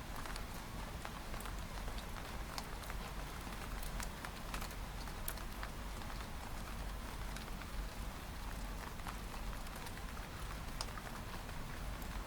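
Rain on a window pane: a steady hiss of rain with irregular drops tapping sharply on the glass, over a low steady rumble.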